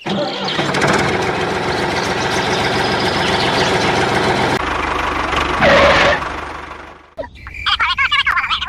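A small engine running steadily. Its sound changes about halfway through and fades out, and high chirping calls follow near the end.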